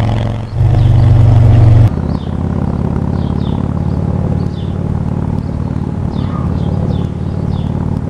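Motorcycle engine running, loud for about the first two seconds, then dropping abruptly to a steadier, quieter drone.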